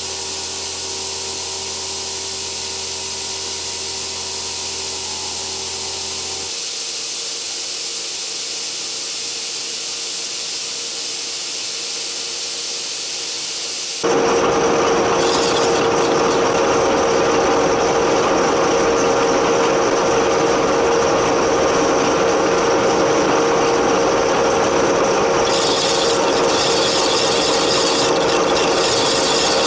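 Milling machine cutting the outside dovetail on a mild-steel chuck jaw with a dovetail cutter: a steady machine whir with a held tone and the rasp of the cutter in the steel. It turns abruptly louder and fuller about halfway through.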